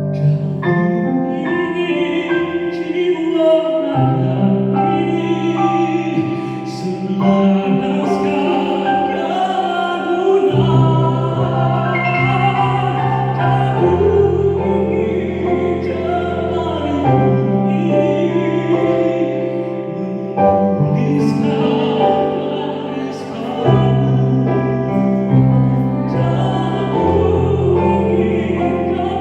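A man singing in a full, operatic style, holding long notes with vibrato over sustained instrumental chord accompaniment.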